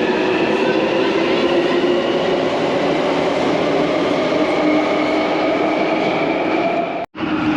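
Electric metro train running: a steady rumble of running noise with a constant motor whine at several pitches. It cuts out for an instant near the end.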